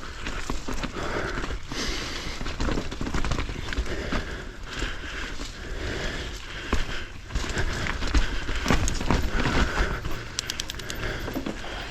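A mountain bike ridden over rough trail: tyres crunching on dirt and rock, with the bike clattering and ticking over bumps throughout, and low wind rumble on the camera microphone.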